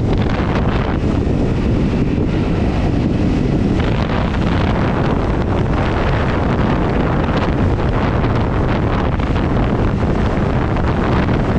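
Steady wind noise buffeting the microphone on a moving Honda CRF250 motorcycle, with the bike's single-cylinder engine running beneath it.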